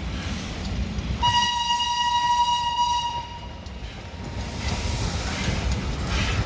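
A train horn sounds one steady, high note for about two seconds, starting about a second in, over a constant low rumble of rail and station noise. Near the end, rail noise with clatter rises.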